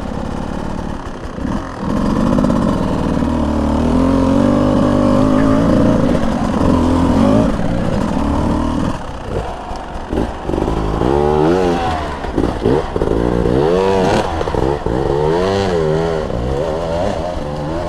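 Beta 200 two-stroke dirt bike engine running at fairly steady revs, then, about halfway through, revving up and down again and again as the throttle is opened and closed.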